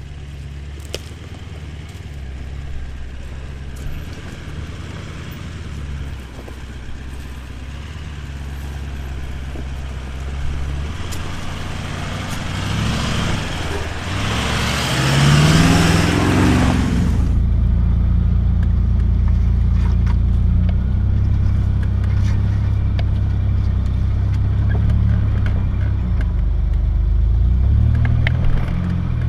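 Toyota LandCruiser's V8 turbo-diesel engine working slowly up a rutted washout. It runs steadily and grows louder about halfway through. A loud rushing noise swells midway and cuts off suddenly.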